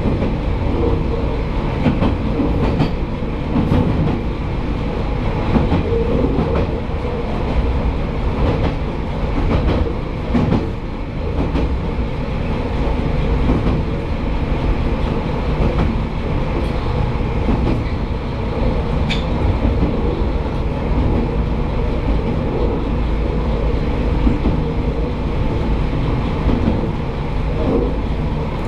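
Kashima Rinkai Railway 6000 series diesel railcar running steadily, heard from inside its rear cab: a steady low rumble with scattered clicks as the wheels pass over rail joints and points.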